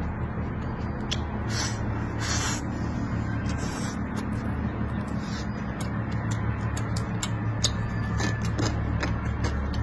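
Close-up chewing of food with many small wet clicks, and a few short hisses in the first four seconds, over a steady low hum.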